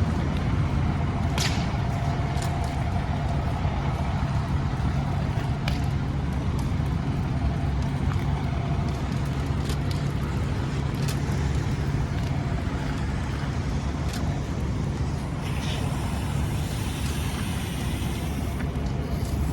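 Fire engine's diesel engine running steadily with a low hum, with a few short sharp sounds now and then and a brief hiss near the end.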